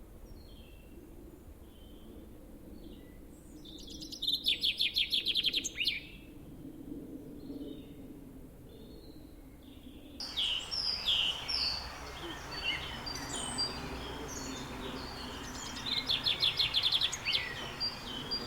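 Wild birds singing and calling, with short chirps and a loud, rapid trill lasting about two seconds that comes twice. About halfway through the background hiss suddenly rises and the chirping becomes busier.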